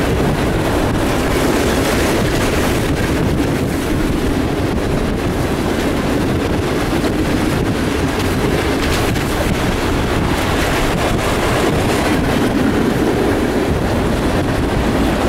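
CSX freight train's open-top coal gondola cars rolling steadily past, a continuous loud noise of wheels on rail.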